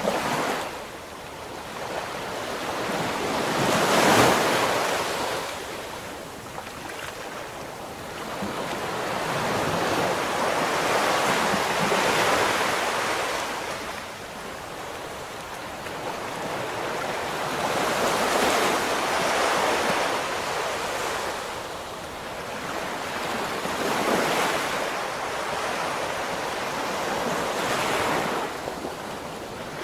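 Ocean waves breaking and washing up the shore, the surf swelling and falling back every few seconds, the loudest break about four seconds in, with some wind on the microphone.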